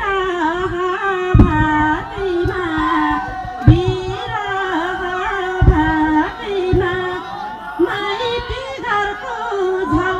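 A woman singing a Nepali song live: one voice holding a wavering, ornamented melody. A few low thumps fall under it, about every two seconds.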